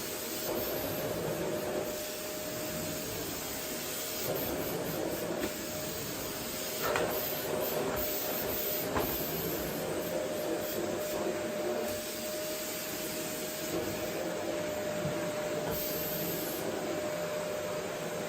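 Household vacuum cleaner running steadily on a wooden floor: a constant rushing hiss with a steady motor whine, and a couple of light knocks about seven and nine seconds in.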